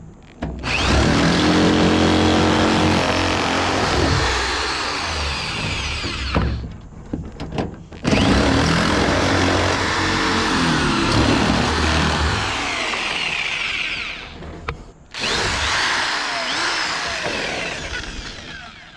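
Handheld power tool cutting through sheet metal, throwing little sharp metal shavings. It runs in three bursts of several seconds each with brief stops between, the last one tailing off near the end.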